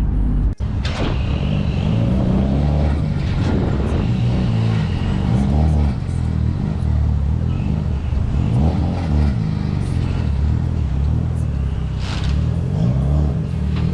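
Daihatsu Copen's 660cc turbocharged engine running under way, its note rising and falling several times as it is revved.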